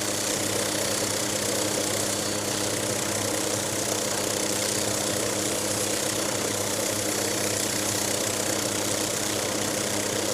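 An engine running steadily with an even hum and hiss, holding one pitch throughout.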